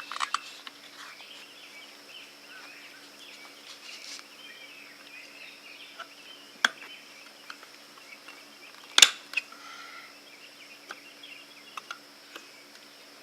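Scattered sharp metallic clicks and snaps as an E-clip is worked onto a riding mower's axle to hold the wheel on, the loudest snap about nine seconds in.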